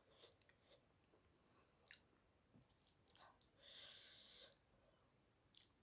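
Faint close-up chewing and mouth sounds of eating, with scattered small wet clicks and a short hissing noise about four seconds in.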